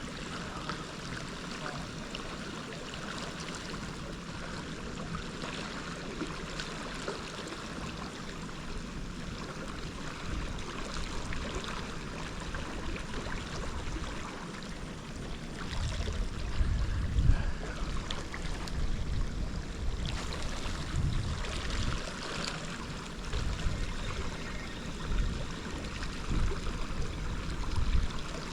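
Steady rushing of flowing river current, with low rumbling bumps on the microphone in the second half.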